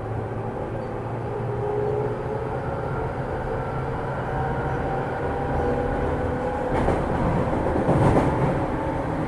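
Onboard running sound of a 205 series electric train: the outer-fan traction motors hum and whine under the floor over a steady wheel-on-rail rumble, the tones rising slightly. About seven to eight and a half seconds in there is a brief rattle, like the wheels crossing joints or points.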